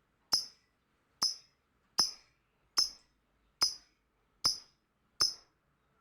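Lovebird giving short, shrill, high chirps, repeated evenly about once every 0.8 seconds, seven times. Each call is sharp at the start and dies away quickly.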